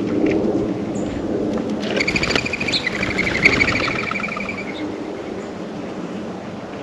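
A wild songbird calling a rapid, pulsed run of notes lasting about three seconds, starting about two seconds in and falling slightly at the end, over a steady low rumble.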